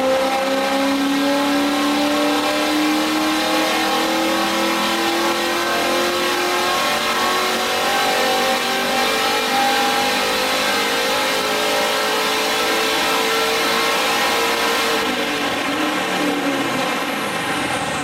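A cammed 5.7-litre LS1 V8 under full load, most likely on a chassis dyno, its revs climbing slowly and steadily. About fifteen seconds in, the throttle is released and the revs fall away.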